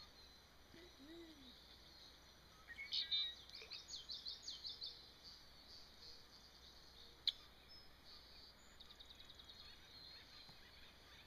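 Faint birdsong: scattered high chirps, with a quick trill of rapidly repeated notes about nine seconds in. A single sharp click sounds about seven seconds in.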